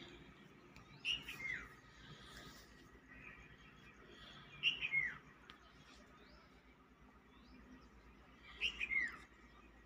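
A bird calling three times, about four seconds apart, each call a short chirp followed by a falling note, with fainter bird notes in between.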